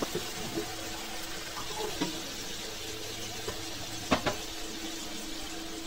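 Mustard, cumin and onion paste sizzling in hot oil in a karahi, with a metal spatula knocking against the pan a few times, twice in quick succession about four seconds in. A steady low hum runs underneath.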